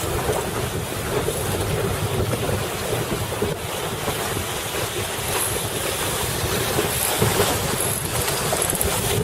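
Strong wind buffeting the microphone over water rushing along a sailboat's hull, a steady loud rush with a low rumble.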